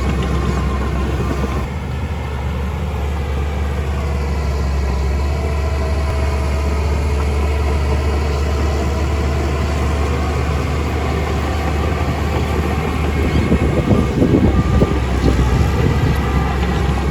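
Heavy diesel construction machinery running steadily with a deep, constant engine drone. Near the end it turns louder and rougher, with uneven rattling peaks.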